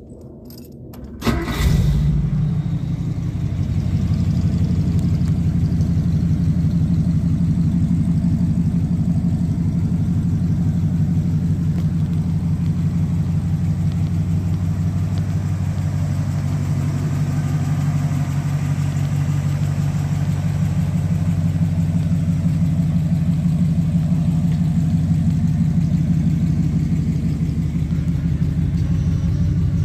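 A 1956 Ford Fairlane's 292 cubic inch Y-block V8 is started with the key: a brief crank, then it catches about a second and a half in, flares up and settles into a steady idle through its dual exhaust.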